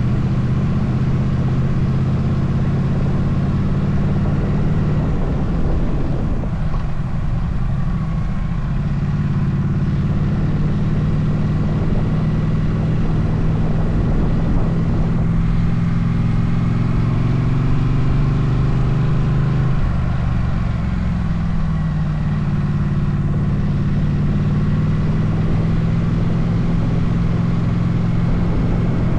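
Motorcycle engine running steadily under way, with wind and road noise; the engine note shifts in pitch a few times, as the revs change.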